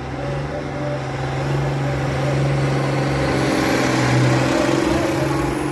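Engine of a truck-and-tractor-pull vehicle running with a steady pitched note, growing louder over the first two seconds and holding a heavier, noisier sound through the middle.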